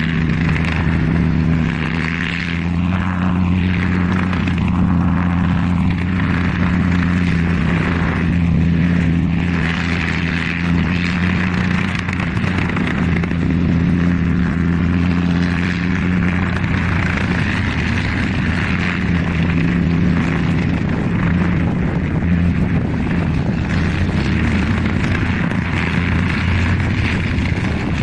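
Propeller airplane engine running with a steady low drone and hiss; the hiss sweeps up and down in pitch several times in the first ten seconds or so.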